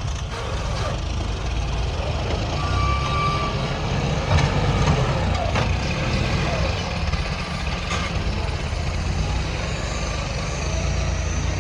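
Heavy diesel machinery running steadily at a worksite, a low continuous engine rumble with a few short clanks and knocks, and a brief higher tone a few seconds in.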